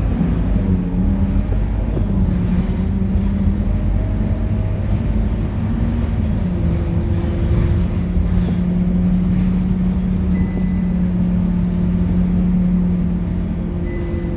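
Scania K230UB bus's diesel engine running on the road, its drone shifting in pitch a couple of times and then holding steady. Two short high beeps sound near the end.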